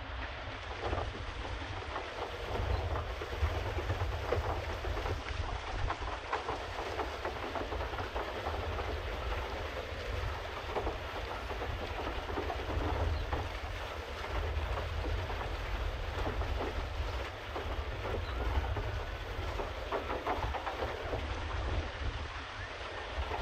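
Pedal boat on a canal: the paddle wheel churning and splashing the water in an irregular crackle, over a steady low rumble of wind on the microphone.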